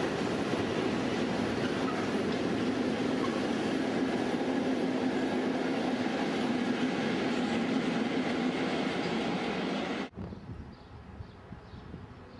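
Freight train of covered sliding-wall wagons rolling past: a steady rumble of steel wheels on rail with a constant hum and some clickety-clack. It cuts off abruptly about ten seconds in, leaving a much quieter background.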